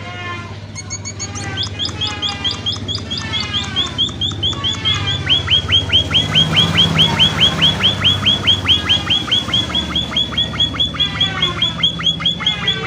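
Munia (emprit) calling in a long, fast run of high chirps, each falling sharply. They settle into an even chatter of about six a second a few seconds in. This is the lively 'gacor' calling used as a lure to set other munias answering.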